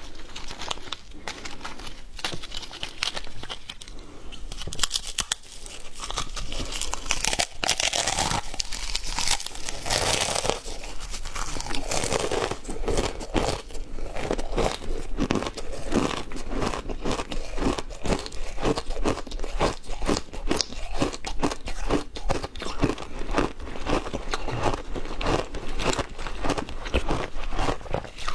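A person biting and chewing hard frozen matcha ice, with loud, dense crunching and cracking. In the second half it settles into steady chewing at about three crunches a second.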